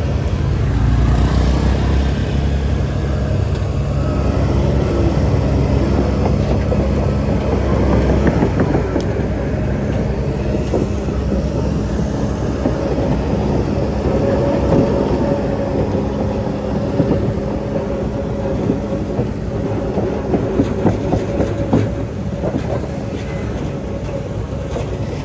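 Crawler bulldozer working: its diesel engine runs steadily under load while the steel tracks clank and rattle continuously.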